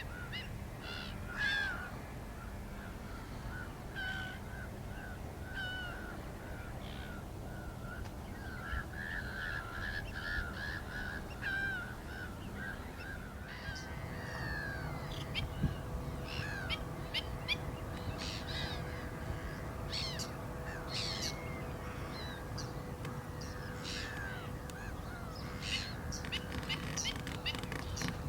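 Black-winged stilts calling: a long run of short, sharp calls repeated in quick series, some sliding down in pitch. A faint steady hum joins about halfway through.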